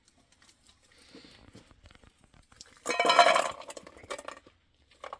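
Kitchenware clinking: light taps and clicks, with one loud ringing clank about three seconds in that dies away within a second.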